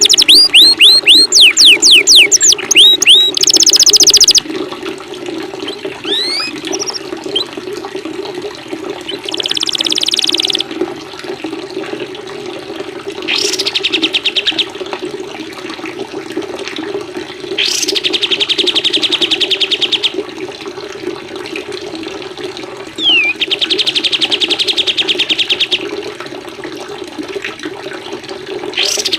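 Songbird training mix of canary, cililin and kapas tembak songs over steadily running water. A run of quick downward-swept whistles opens it. Short, rapid high trills then recur every few seconds.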